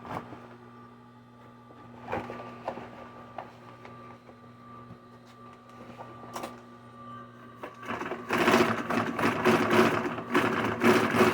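Sewing machine stitching bounce-house material. The motor hums steadily with a few scattered clicks, then the machine runs fast and loud from about eight seconds in.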